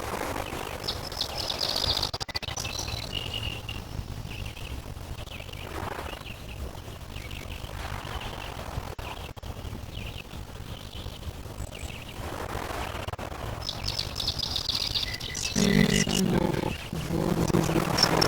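Small songbirds chirping, with rapid trills of high repeated notes twice: early on and again near the end. Under them run a steady low rumble and soft washes of lake water lapping. A louder low-pitched call sounds near the end.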